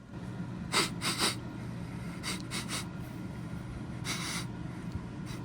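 Short breathy sniffs and snorts: a pair about a second in, a quick run of three around two and a half seconds, and one more about four seconds in, over a low steady hum.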